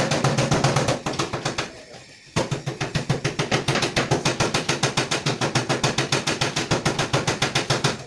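Rapid, even mechanical clatter of about ten strikes a second over a steady low hum. It stops for about a second and a half near the start, then resumes.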